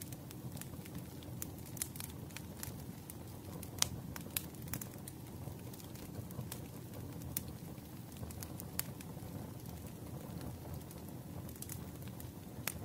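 Wood fire in a fireplace crackling: a steady low rumble of burning with scattered sharp pops and snaps, the loudest a little under four seconds in.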